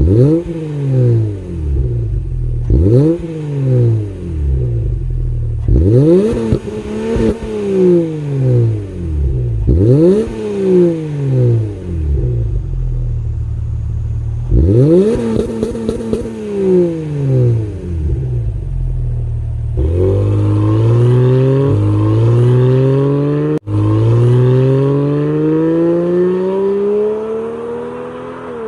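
Subaru Legacy 3.6's flat-six engine breathing through a valved variable exhaust. It is blipped in a series of short, sharp revs that rise and fall quickly. After that come three longer, steady climbs in pitch, each dropping back briefly before the next.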